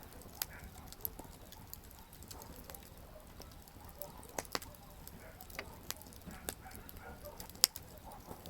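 Wood campfire crackling, with irregular sharp pops and snaps over a faint steady hiss; one much louder pop comes near the end.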